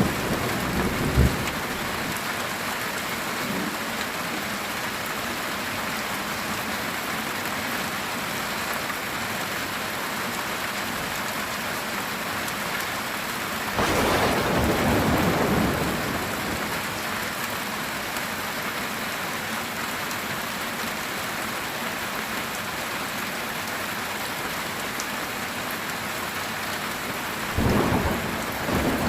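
Heavy rain falling steadily on a metal tin roof, with a roll of thunder about halfway through and another near the end.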